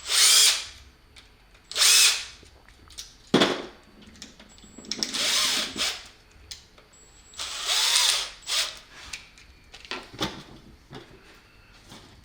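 Power drill run in short bursts, about five brief spins of under a second each, likely driving screws while the cord cap is put together, with a sharp click about a third of the way in.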